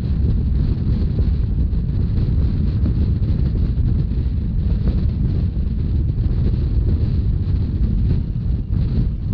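Wind buffeting the microphone over the steady low rumble of a narrow-gauge Rhaetian Railway train running along the line.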